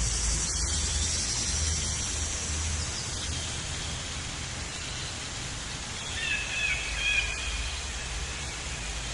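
Outdoor ambience: a steady hiss with a low wind rumble, and a bird chirping briefly about six seconds in.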